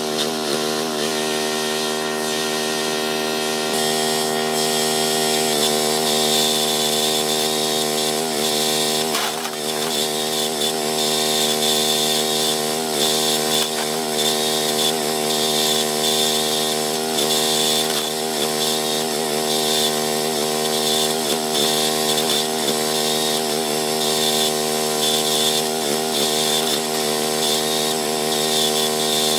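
Small gasoline engine of a towed backhoe running steadily at speed, its pitch wavering slightly now and then.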